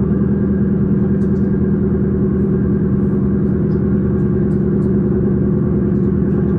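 Steady running noise of an S-Bahn electric train in motion, heard from inside: an even hum with a strong low tone that holds constant, with a few faint ticks above it.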